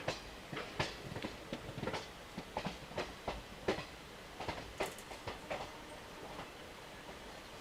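Train wheels clattering over rail joints: an uneven run of sharp clacks that thins out after about five and a half seconds.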